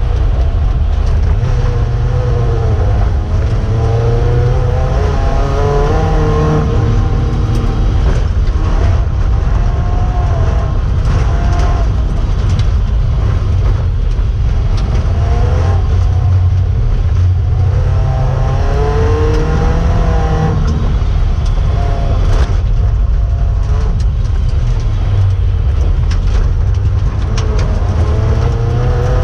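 A race car's four-cylinder 16-valve engine heard from inside the cabin, revving hard under load, its pitch climbing and dropping again and again as the driver shifts gears and lifts, over a constant heavy rumble of tyres and drivetrain on the snowy track.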